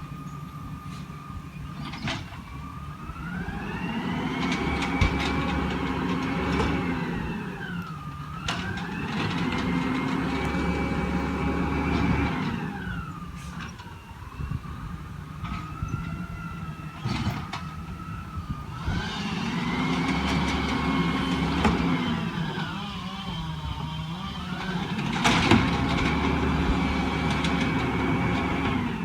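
Peterbilt 320 garbage truck's diesel engine revving up and holding high, then dropping back to idle, four times over, as it drives the Amrep body's hydraulic packer. Sharp metal clanks come in between, the loudest about five seconds in and again near the end.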